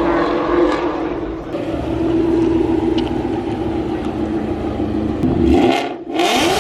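Car engine running at idle with a steady rumble, then revved up near the end, the pitch rising quickly.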